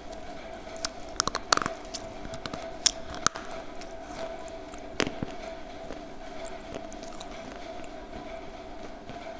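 Close-miked crunching of a homemade slate pencil lollipop: a few sharp bites, several together about a second in and single ones near three and five seconds, then quieter chewing.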